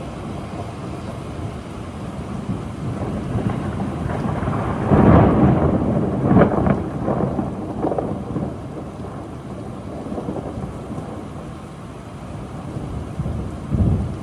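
Thunder rolling over steady rain, building to its loudest with a few sharp cracks about five to eight seconds in, then rumbling off; another crack comes near the end.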